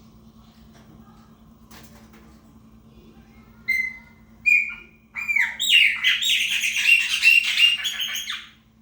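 Chopi blackbird singing: two short clear notes about four seconds in, then a fast run of varied, rapidly changing notes lasting about three seconds.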